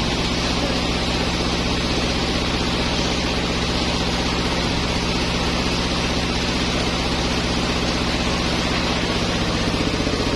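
Sawmill running: a steady engine hum under a constant rushing noise, with no change in level.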